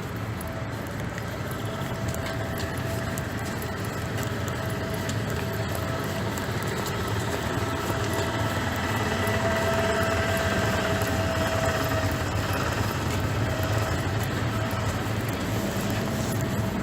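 Steady rain ambience with an even hiss. A humming tone rises in level to its loudest about two-thirds of the way through, then fades.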